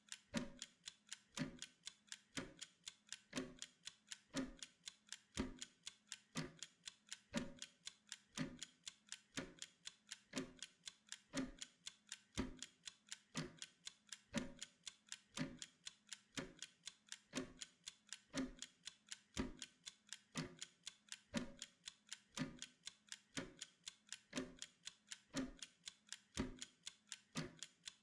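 Mechanical timer ticking steadily, about two ticks a second, with louder and softer strokes alternating like a tick-tock.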